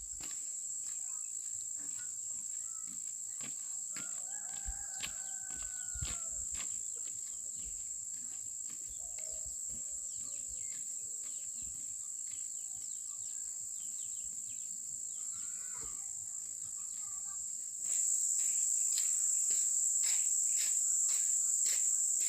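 Steady, high-pitched chorus of insects, growing louder near the end, with scattered light clicks and knocks.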